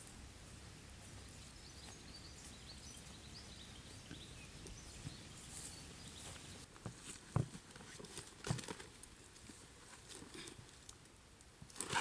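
Faint outdoor background hiss with scattered soft clicks and rustles, and two sharper knocks about a second apart after about seven seconds.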